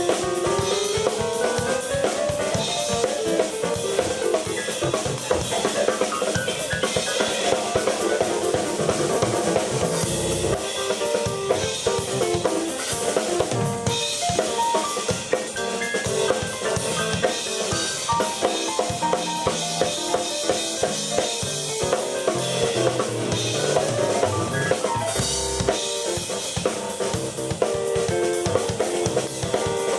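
Live keyboard and drum kit duo playing a rock jam: busy drumming with snare and bass drum under sustained keyboard lines, with a rising pitch glide in the keyboard just after the start.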